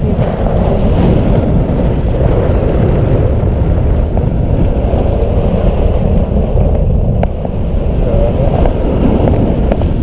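Wind buffeting the microphone while riding a fixed-gear bicycle: a loud, steady rumbling rush with a few faint clicks.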